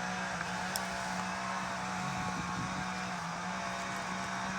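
Steady mechanical hum of a running motor, holding one constant pitch throughout.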